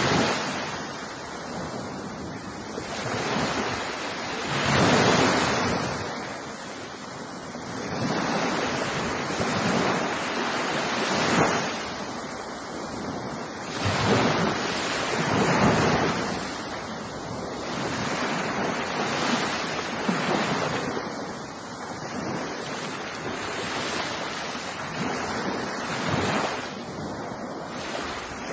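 Ocean waves breaking and washing on a shore, in repeated swells that rise and fall every few seconds.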